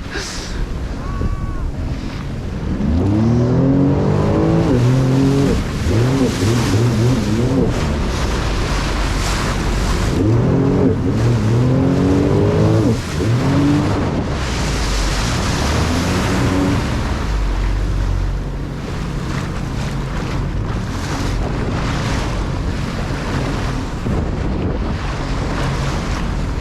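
Jet ski engine running under way, its pitch rising and falling in several surges as the throttle is worked over the waves. Rushing wind and water spray run underneath.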